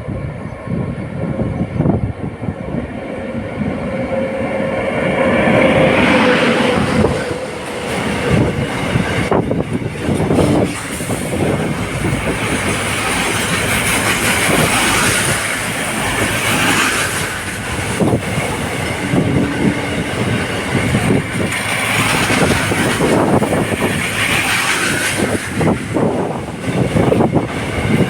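WAG-9 electric locomotive hauling a container freight train past, loud throughout: a continuous rumble with the rapid clatter of wheels over rail joints, and a steady tone during the first few seconds that then fades.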